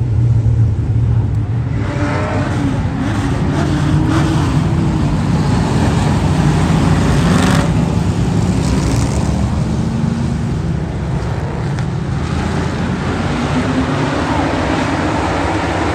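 Racing engines running on the track, their pitch rising and falling as they rev, with a brief sharp crack about halfway through.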